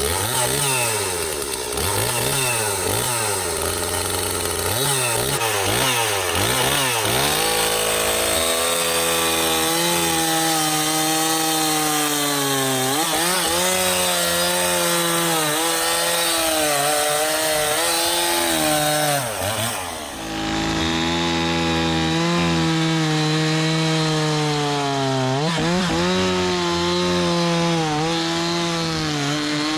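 Stihl MS 260 two-stroke chainsaw revved up and down several times, then running at full throttle through a log, its pitch sagging as the chain bites. It eases off briefly about 20 seconds in, then cuts again.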